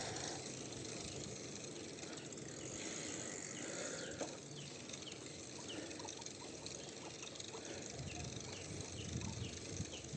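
Quiet countryside ambience on a bicycle ride: a steady hiss of rolling and wind noise. From about four seconds in, a bird calls in short high chirps repeated about twice a second.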